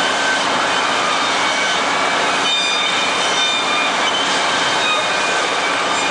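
Abrasive polishing belt running as steel needle-nose pliers are held against it by hand: a steady, loud rushing hiss with thin whining tones that come and go.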